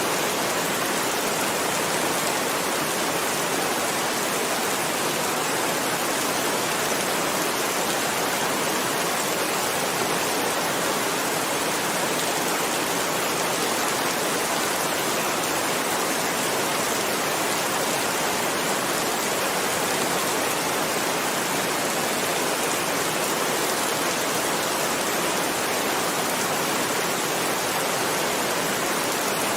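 Heavy rain falling, a steady, even hiss with no sudden crashes or changes.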